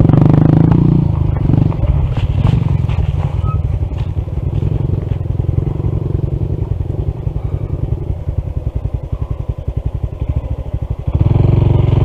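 Honda CT125's single-cylinder engine running at low revs with an even pulsing beat. It is loud for the first second, then quieter with a few sharp clicks and knocks, and picks up again about eleven seconds in.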